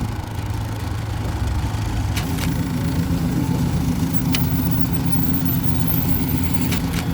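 A car engine running steadily at idle, its note stepping up a little about two seconds in, with a few light clicks.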